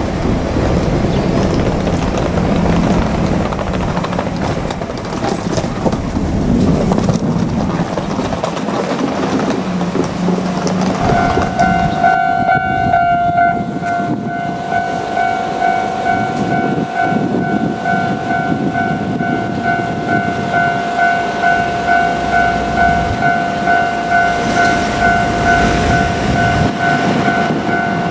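KiHa 47 diesel railcar running on the track, its engine drone and rail noise filling the first part. About eleven seconds in, a level-crossing warning bell starts ringing: a steady ding repeating about every three quarters of a second.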